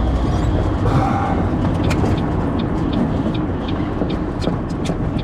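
Cabin noise of a 2004 Ford Focus: a steady low engine and road rumble, with scattered sharp ticks from about two seconds in.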